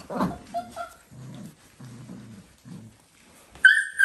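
Dalmatian puppies growling in play: a series of short low growls, then one loud high-pitched yelp near the end.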